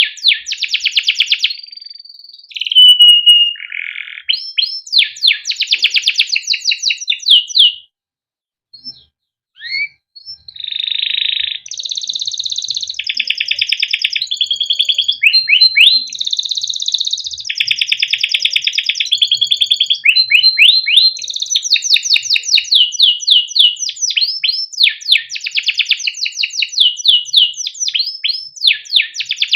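Male canary singing a long song of fast trills and repeated chirping notes, broken by a short pause about eight seconds in.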